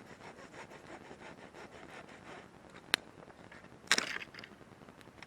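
Wood campfire crackling, with a single sharp pop about three seconds in and a louder burst of crackles about a second later.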